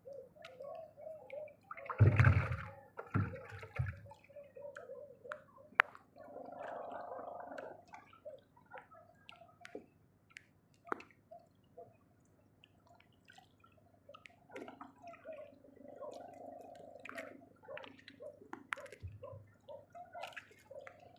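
Water sloshing, gurgling and dripping, with scattered small clicks and knocks throughout and a louder splash about two seconds in.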